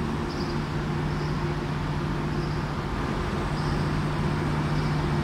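Steady low hum of a train standing at the platform, its engine or onboard equipment running.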